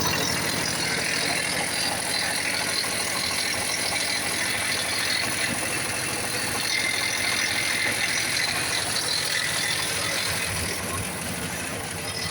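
A 10-horsepower engine running steadily, with a rattle, a little quieter near the end.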